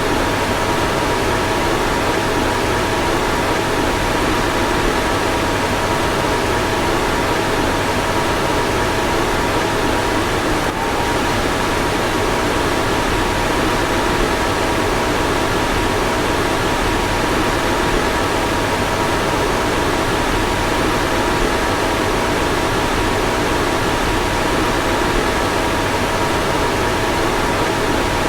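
A car fan running steadily: an even rush of air with two faint steady tones in it, and a brief tick about eleven seconds in.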